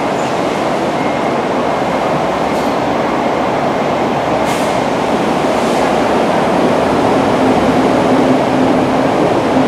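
Electric train noise: a steady, loud rumble of rail running. A low steady hum sets in about two-thirds of the way through, with a few faint high clicks.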